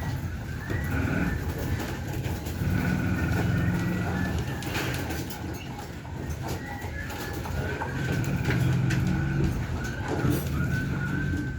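Pigeons cooing in repeated low phrases of about a second each, with fainter higher-pitched calls running alongside.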